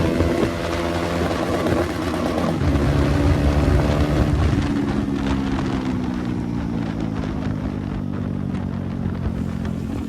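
KTM 390 Duke's single-cylinder engine running without its exhaust, heard from the moving bike. The revs hold high, dip briefly about two seconds in, climb again, then slowly fall off.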